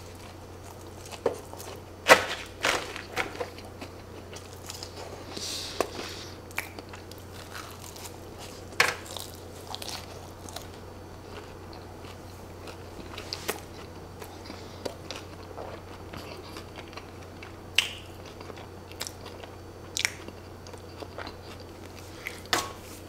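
A person chewing a mouthful of cheese- and sauce-covered fries close to the microphone: irregular wet mouth clicks, smacks and soft crunches, over a faint steady low hum.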